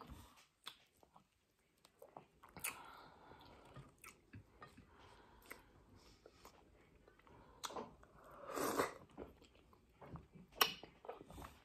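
Close-up chewing of fufu and beef tripe stew, with scattered short mouth clicks. A louder stretch of chewing comes about nine seconds in.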